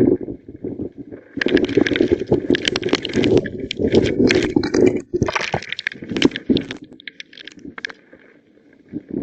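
Severe thunderstorm straight-line winds gusting hard, a dense rumble with many crackling, rattling impacts. It dies down for a moment near the end.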